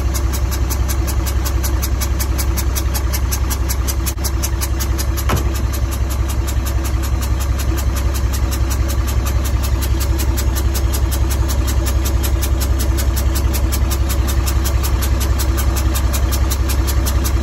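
Engine of a 1980 Bedford TK truck running at a steady idle, its firing pulses even and fast. The engine has a blown head gasket.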